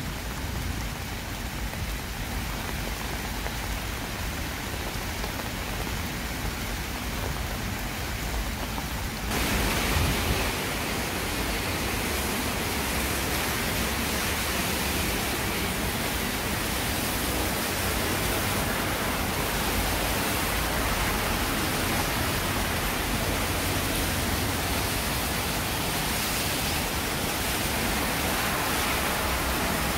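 Heavy rain falling, a steady hiss. About nine seconds in it cuts to a louder, brighter rushing of rain on a swollen, fast-flowing stream in flood.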